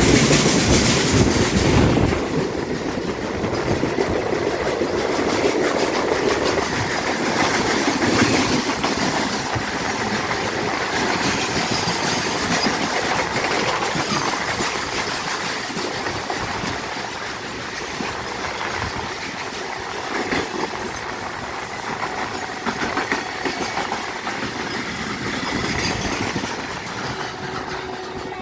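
Indian Railways goods train of open wagons running past on the next track, heard from the open door of a moving train: a steady rumble and clatter of wheels over rail joints. Loudest in the first two seconds, then it eases off slowly toward the end.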